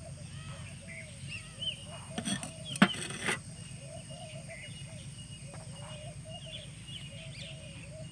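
Birds calling repeatedly in short chirps. A few sharp clinks or knocks about two to three seconds in are the loudest sounds.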